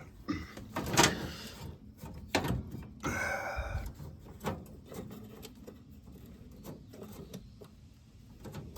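Sharp clicks and knocks from handling a vintage window air conditioner's plug and control knobs, the loudest about a second in, with a short scraping squeal around three seconds in; the unit does not start up, which is put down to a fault in the extension cord.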